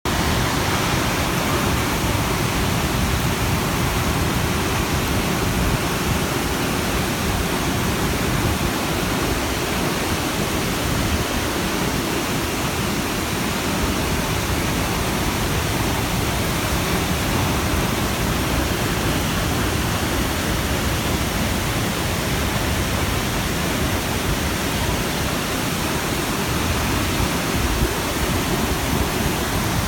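Nachi Falls, a tall single-drop waterfall, pouring into its plunge pool with a steady, unbroken rush of water.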